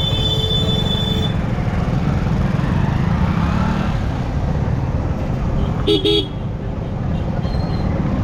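Riding a Yamaha R15 motorcycle in road traffic: a steady rumble of wind and engine, with a vehicle horn giving two short toots about six seconds in. A steady high tone stops about a second in.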